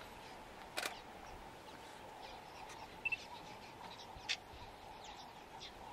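Faint wild birds chirping now and then over a steady low hum, with two short sharp sounds, about a second in and near four seconds. About three seconds in comes a quick double electronic beep, like a camera's focus beep.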